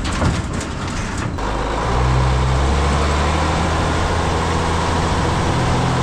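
Diesel truck engine running steadily under load, a little louder about two seconds in. A clatter of short knocks comes before it in the first second or so.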